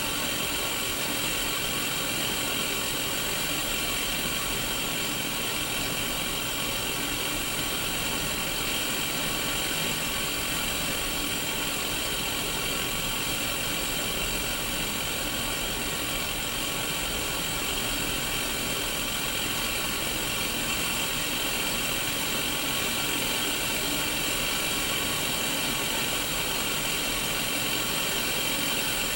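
Static hiss from a Sony Mega Watchman black-and-white mini CRT TV: a steady, even white-noise rush, strongest in the upper-middle range, that never changes.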